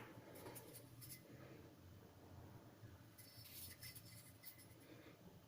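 Near silence: a faint low room hum, with a few faint light scratches about three to four seconds in.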